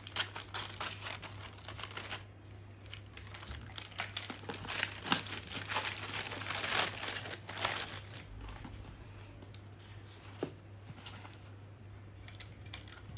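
Packaging of a makeup palette being handled and torn open: irregular crinkling, rustling and crackling, busiest near the start and again in the middle, over a steady low hum.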